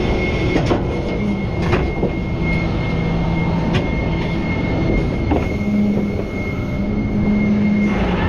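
Rollback tow truck running with its bed hydraulics engaged while the bed is worked: a low engine drone under a steady high whine, with a few sharp metallic knocks.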